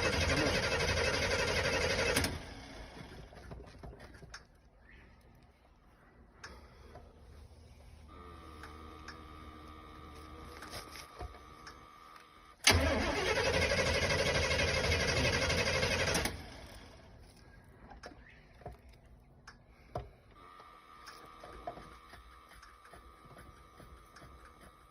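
A car engine being cranked by its starter without catching: a no-start. The cranking stops about two seconds in, starts again about halfway through for some three or four seconds, and stops again. Between the attempts a steady high tone sounds, with a few light clicks.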